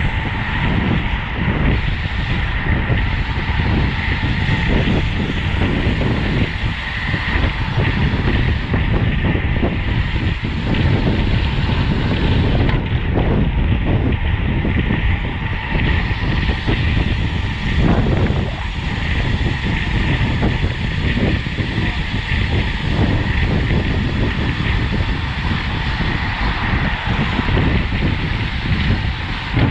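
Wind rushing and buffeting over the microphone of a camera mounted on a racing bicycle at speed, a steady loud rumble.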